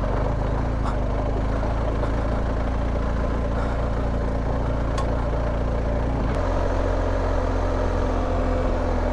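BMW R1250GS boxer-twin engine running steadily under way. Its note shifts a little over six seconds in as the engine speed changes.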